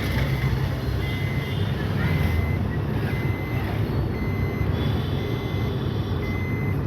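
A vehicle's reversing alarm giving half-second beeps about once a second, over the steady low rumble of an engine running.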